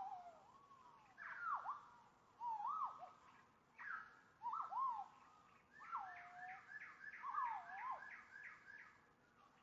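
A songbird singing: repeated swooping whistled notes that dip and rise, in short phrases mixed with quick runs of rapid chirps.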